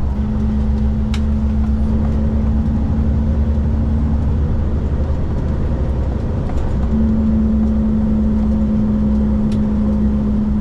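Cummins diesel engine of a Kenworth K200 cab-over truck running steadily under way, heard from inside the cab with road noise, as a continuous low rumble with a steady hum.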